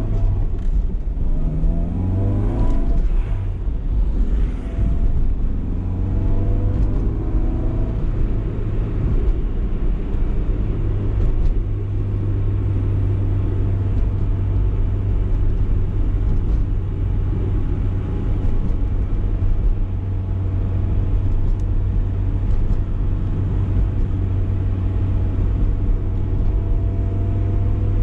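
BMW E30 318is four-cylinder engine rising in pitch twice in the first few seconds as the car accelerates. It then settles into a steady low drone while cruising, with road rumble underneath.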